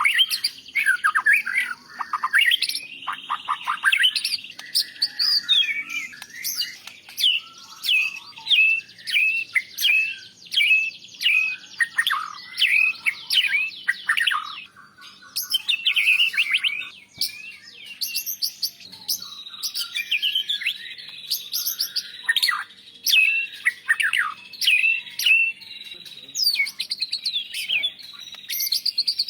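White-rumped shama (murai batu) singing a loud, continuous, varied song of rapid whistled sweeps, trills and sharp chip notes, delivered in quick phrases with brief pauses.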